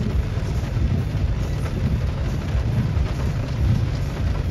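Heavy thunderstorm rain falling steadily, with a constant low rumble underneath.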